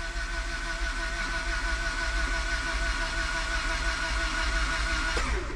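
Starter motor cranking a Honda G23 four-cylinder engine that does not fire, its fuel pump and ignition disabled, spinning it over to prime the oil system and build oil pressure after an oil pan reseal. The steady whine of the starter with an even pulse of the engine turning over runs on and cuts off about five seconds in.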